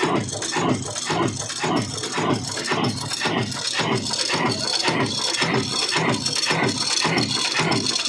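Old Ruston diesel engine running at a slow, steady speed, with an even beat of about three firing strokes a second and a mechanical rattle.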